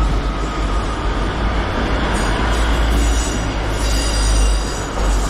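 Diesel multiple unit pulling out of the station under power, its engines revving hard with a loud, steady deep rumble.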